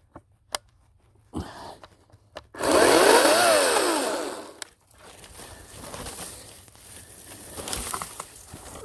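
Ryobi 40-volt cordless chainsaw: about two and a half seconds in, its electric motor whines up to speed and winds back down over about a second and a half, followed by quieter noise.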